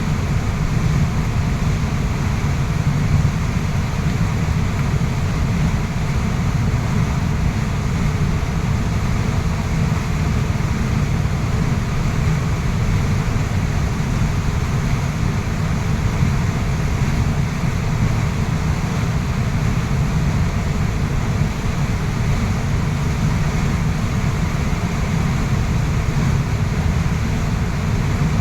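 Waterfall rushing steadily: a constant deep rush of falling water with a fainter hiss above it, unchanging throughout.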